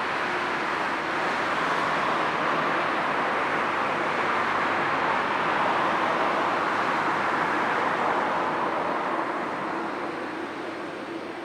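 Jet airliner passing close by, the broad engine noise swelling and then easing off near the end.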